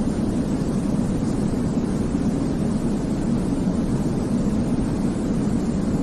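Continuous sleep-aid white noise for babies, heavy in the low end so that it comes across as a deep, even rumble, steady and unchanging.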